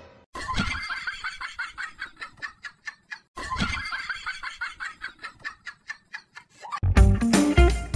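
A dog barking in a rapid run of yaps, two stretches of several seconds each: the recorded sound effect of the 'invisible dog'. A loud burst of music cuts in near the end.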